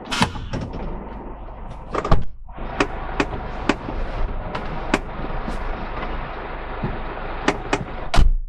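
Car door opening with a thud, then outdoor wind and road noise through the open door with scattered knocks and clicks, and the door slamming shut just after eight seconds in, which cuts the noise down sharply.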